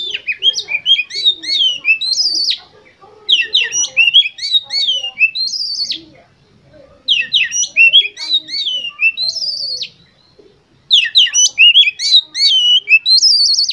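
Oriental magpie-robin (kacer) song: four bouts of rapid, varied whistled phrases, separated by short pauses near 3, 6.5 and 10.5 seconds in. It is used as a lure call to rouse caged competition birds into singing.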